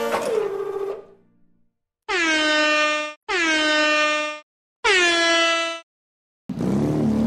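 Race start countdown signal: three horn-like beeps, each about a second long, with a slight dip in pitch at the start of each before it holds steady. About six and a half seconds in, a loud rushing noise starts. Music fades out in the first second.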